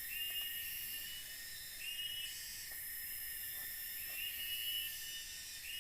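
Forest insect chorus: a steady high-pitched shrilling, with a brighter shrill call that repeats about every two seconds.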